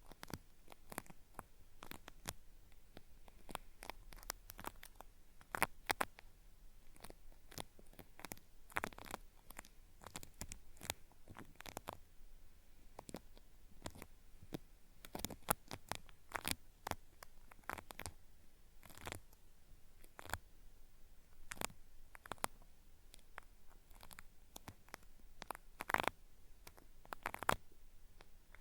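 Cotton swab scraping and rubbing at a binaural microphone's ear: an ASMR ear-cleaning sound meant to feel like peeling, made of dense, irregular crisp crackles with a few louder snaps.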